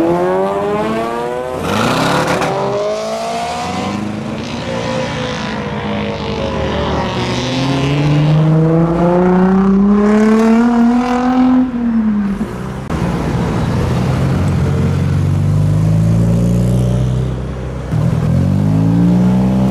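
Modified and classic cars driving off one after another, their engines rising in pitch as they accelerate. One car's note climbs steadily for several seconds and then drops sharply about two-thirds of the way through, and another car pulls away near the end.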